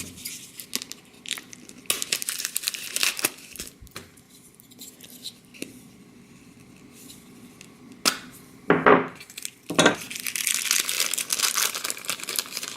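Blind-bag packaging crinkling and tearing as it is opened. The crackle comes in bursts, at about two to three seconds in and again, louder, from about ten seconds.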